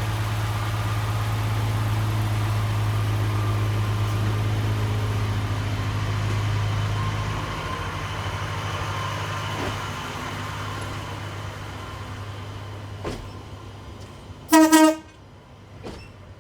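Pacer diesel railbus engine running and pulling away from the platform, its low drone fading steadily as it goes. Near the end the train's horn gives one short toot.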